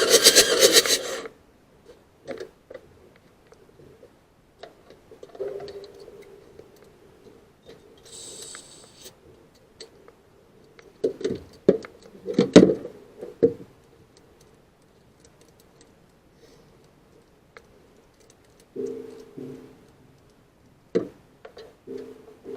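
Diesel engine turning over for a compression test cuts off about a second in. Scattered clicks, scrapes and knocks of tools being handled follow, with a short hiss about eight seconds in and a cluster of louder knocks around twelve seconds.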